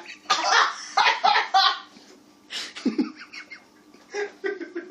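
People laughing in several short bursts with pauses between.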